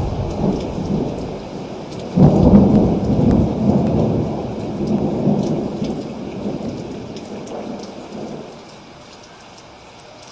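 Thunder over steady rain. A rumble dies down, then a sharp clap about two seconds in rolls on and slowly fades away, leaving only the hiss of rain near the end.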